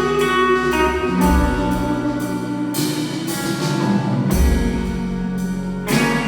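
Rock band playing a slow instrumental passage between sung lines: sustained guitar chords over bass and drums, with a cymbal crash about halfway through and another near the end.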